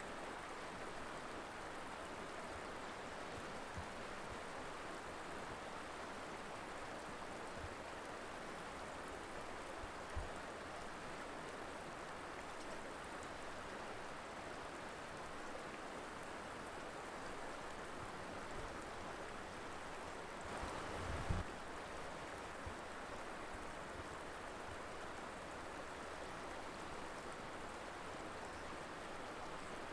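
Colorado River flowing over rocks: a steady rush of water. Brief low thumps break in about ten seconds in and, louder, about two-thirds of the way through.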